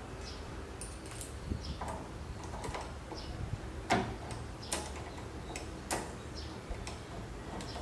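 Irregular light clicks and knocks of metal parts and hand tools being handled during assembly of a CNC Z axis, over a low steady hum. The sharpest knocks come about four and six seconds in.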